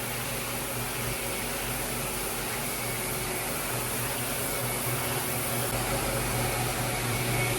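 Car wash vacuum running steadily: a constant motor hum with airy hiss.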